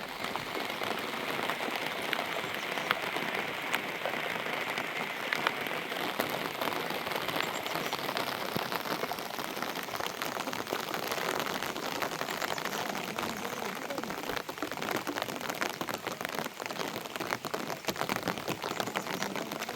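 Steady heavy rain falling, with many separate drops ticking on a surface.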